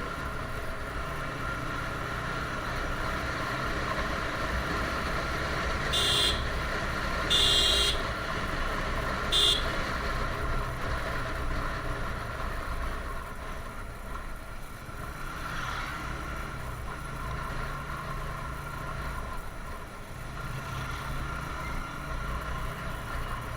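A motorcycle runs steadily at road speed, with engine and road noise throughout. A vehicle horn gives three short beeps about a third of the way in, the middle one the longest.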